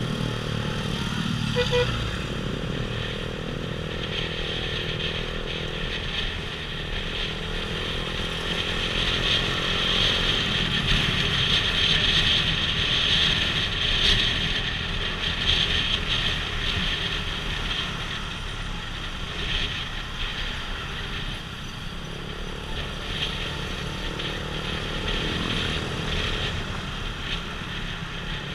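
Motorbike engine running while riding, its pitch rising and falling with the throttle, under a steady rushing road and wind noise.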